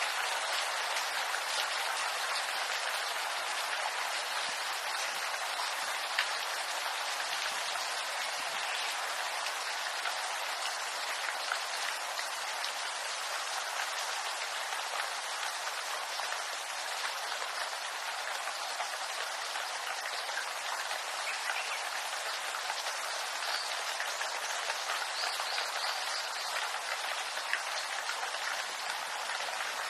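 Steady rain falling on bamboo leaves, a dense even patter with scattered individual drops.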